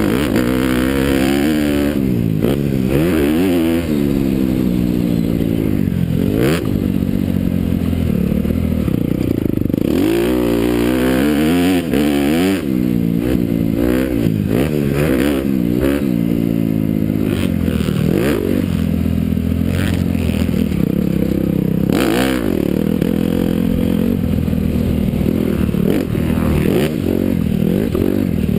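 Honda CRF250R single-cylinder four-stroke motocross bike being ridden hard on a track. The engine pitch climbs and drops again and again as it revs out and shifts or rolls off, with some clatter and scrape from the bike over the ground.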